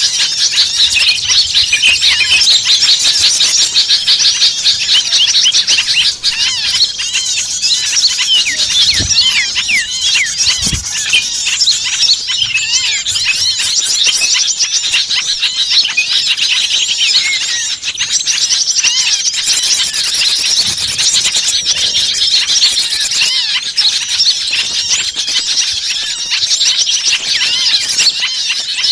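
Bird-lure recording of many small songbirds calling at once: a dense, busy chorus of high chirps, trills and squeaky calls. Two brief low thumps come about a third of the way in.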